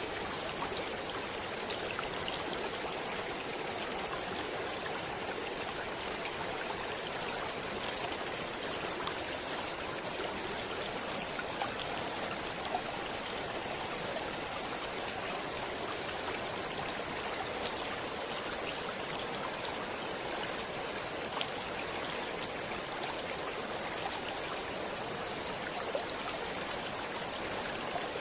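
Running water of a natural stream: a steady, even rushing with small splashes and drips scattered through it.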